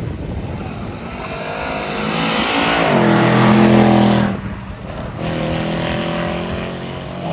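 Sedan's engine revving hard under acceleration as it drives past, the engine note climbing to its loudest about three to four seconds in, dropping off suddenly just after, then picking up again as the car pulls away down the course.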